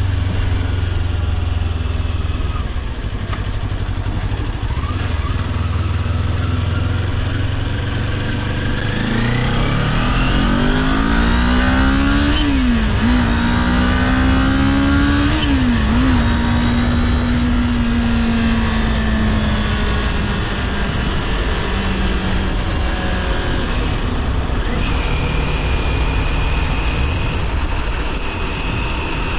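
Kawasaki Ninja 400's parallel-twin engine under way: running steadily, then revving up with two quick upshifts, before holding steady and easing off, with wind and road noise throughout.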